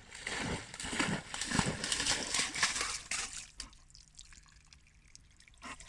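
Water splashing and sloshing as a golden retriever moves through it, for about three seconds, then it quiets down.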